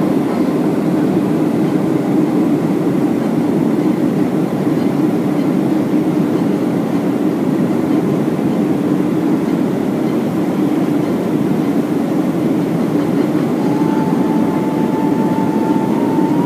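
Steady cabin rumble of a Boeing 737-400 on final approach, the engine and airflow noise heard from inside the cabin. A faint, steady high tone joins near the end.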